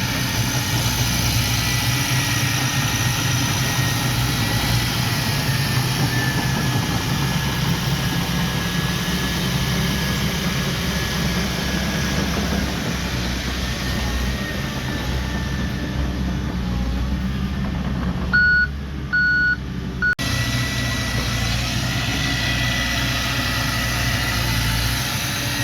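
Heavy diesel earth-moving machinery running steadily, with a faint whine that slowly drifts in pitch. About three-quarters of the way through, the engine sound drops away briefly and a reversing alarm beeps three times.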